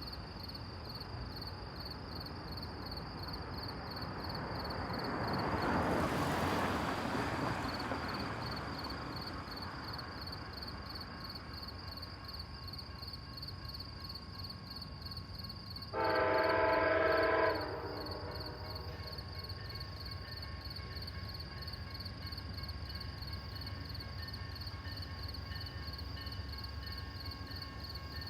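An Amtrak diesel locomotive's multi-chime air horn sounds one blast of about a second and a half, about halfway through, over a steady background hiss. Earlier a rushing sound swells and fades for a few seconds.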